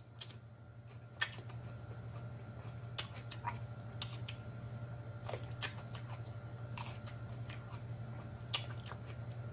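A person chewing food close to the microphone: sharp, wet mouth clicks and lip smacks at irregular intervals about a second apart, over a steady low hum.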